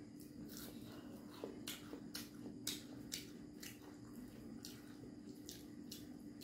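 Wet chewing with repeated lip smacks and mouth clicks from someone eating khichuri by hand, with soft squishing as fingers scoop the rice and lentils on the plate.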